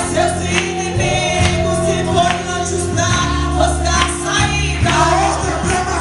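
Gospel worship song: voices singing over instruments with held bass notes and a steady beat.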